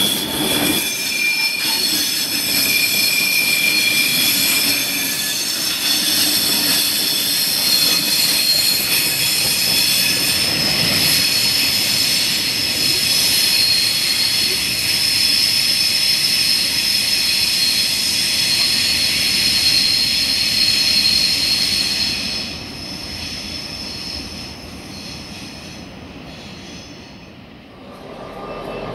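Freight train of loaded open box wagons rolling past on curved track, the wheels squealing with several steady high-pitched tones over the rumble of the wagons. About three quarters of the way through the squeal and rumble drop away as the tail of the train draws off into the distance.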